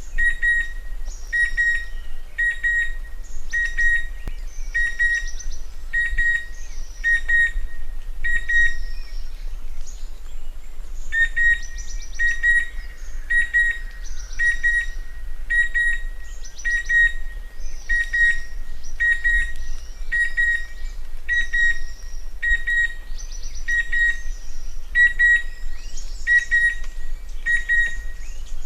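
Chestnut-winged cuckoo calling: a long series of short, clear whistled notes on one pitch, a little more than one a second, with a pause of about two seconds near ten seconds in. Fainter, higher bird chirps come between the notes.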